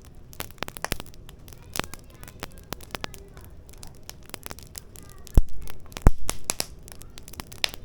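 Firewood burning in a fire pit, crackling with scattered sharp snaps, and two loud pops about five and a half and six seconds in.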